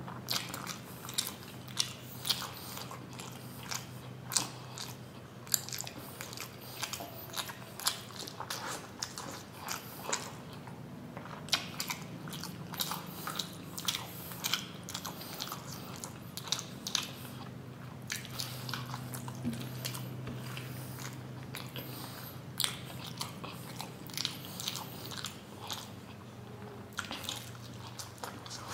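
A person chewing steamed paneer momos with the mouth close to the microphone: a run of irregular wet clicks and smacks over a low steady hum.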